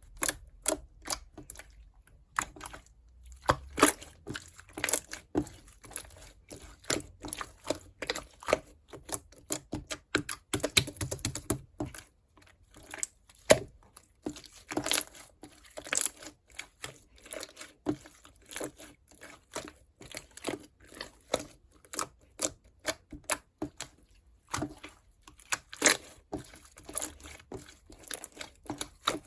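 Green clear slime being squished and stretched by hand, making an irregular run of short, sticky pops and clicks, several a second, with a couple of brief pauses.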